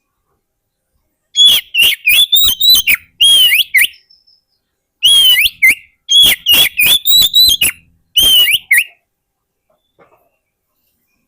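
Oriental magpie-robin (kacer) singing loud whistled song phrases of rapid, sharp notes and slurred whistles. The song comes in two bursts, from about a second in to four seconds and again from about five to nine seconds, with a short pause between them.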